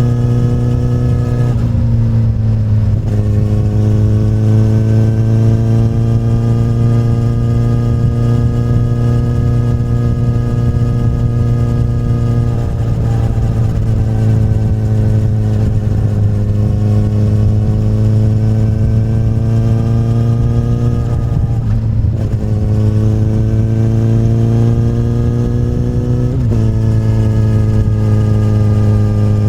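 Honda CBR1000RR inline-four through an Akrapovic carbon slip-on exhaust, heard while riding. The engine pitch rises and falls slowly, with sudden steps about a second and a half in, about halfway through, and twice near the end, as gears change.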